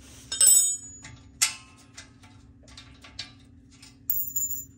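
Metal hand tools and fasteners clinking during exhaust bolt removal: a ringing metallic clink about half a second in, scattered sharp clicks, and a second ringing clink near the end.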